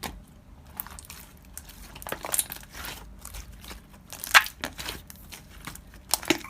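Slime being squeezed and poked by hand, giving irregular crackling and crunching clicks, the loudest a little past four seconds in.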